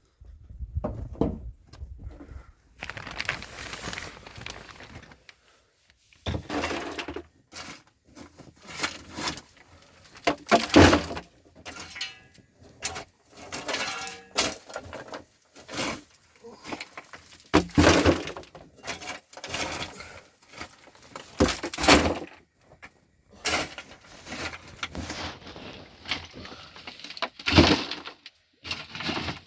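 Irregular series of sharp cracks and knocks with short crunching stretches between them, as of hard material being broken and handled by hand.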